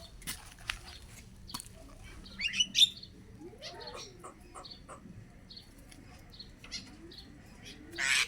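Pet starling making short chirps and clicks, with a quick run of rising chirps about two and a half seconds in and soft chirps after. A loud rustle near the end, like wings flapping.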